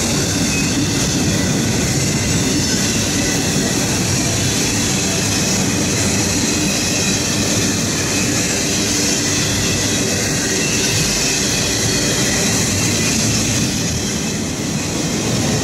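Norfolk Southern freight train of enclosed autorack cars rolling past close by, with the steady rumble and rattle of steel wheels running on the rails.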